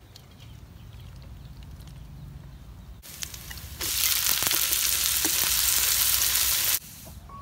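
Small snails and chopped garlic frying in a hot wok, a loud, even sizzle that starts a little over halfway through as they hit the pan and are stirred with chopsticks. It cuts off suddenly shortly before the end.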